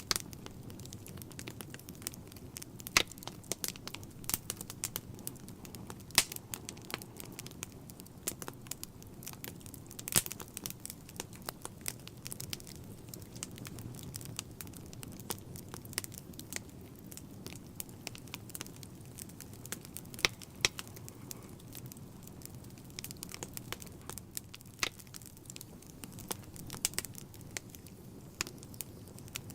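Wood fire in a fireplace burning steadily, with a low rumble of flames and frequent irregular crackles and sharp pops from the logs.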